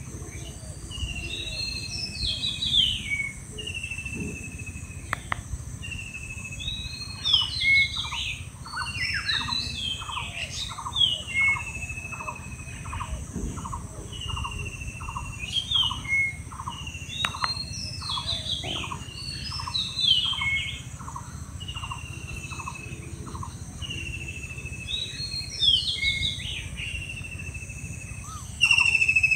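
A wild bird singing the same short phrase over and over, every few seconds: a slightly falling whistle followed by a cluster of quick higher notes. Through the middle runs a series of short, lower repeated notes, about three a second.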